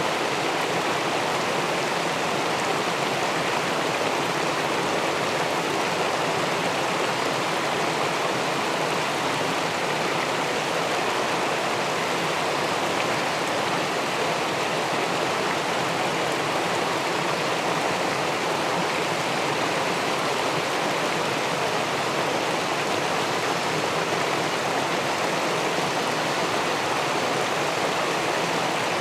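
River water spilling over a small weir into the pool below: a steady, even rushing that does not change.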